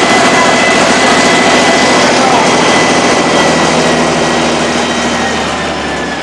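Volvo B7R Low Entry bus's six-cylinder diesel engine running under way, a loud steady drone with a few held whining tones above it. It grows gradually quieter over the last couple of seconds.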